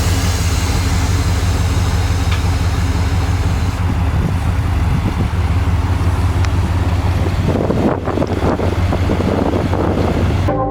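1993 Dodge Ramcharger's V8 engine running steadily with a deep, even hum, turning rougher and more uneven in the last few seconds.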